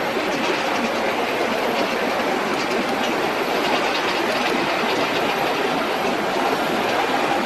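Twin GE90-115B jet engines of a Boeing 777-300ER airliner running on the runway, a loud, steady roar that holds even throughout.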